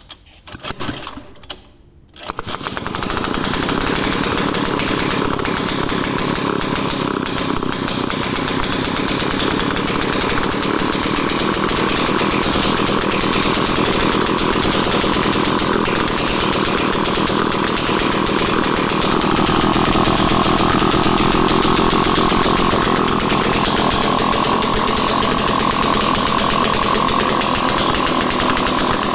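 Daihatsu Midget DKA engine starting: a few short bursts, then it catches about two seconds in and keeps running loudly and steadily with a fast, rattly beat.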